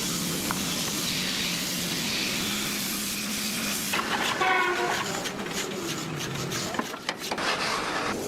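Woodworking machine running with a steady hum and hiss, with a brief squealing whine about four and a half seconds in.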